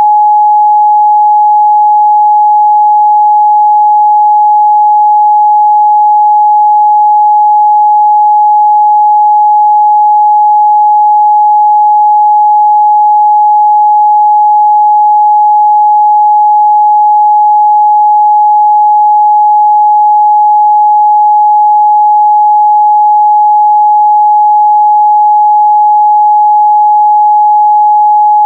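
Continuous 841 Hz sine-wave test tone, a single steady pure pitch held at constant loudness.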